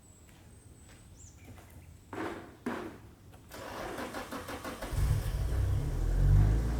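Nissan 180SX's engine cranked over by the starter, catching about five seconds in, rising briefly in revs and then settling into a steady idle. Two short clunks come a couple of seconds before the cranking.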